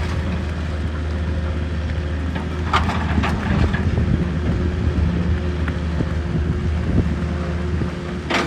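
A steady engine drone with a constant low hum and a few faint steady tones above it, and a few sharp clicks about three seconds in.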